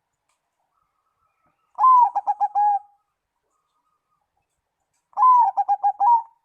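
Zebra dove (perkutut) singing: two cooing phrases about three seconds apart. Each opens with a longer note and runs into a quick string of about five short, clipped coos.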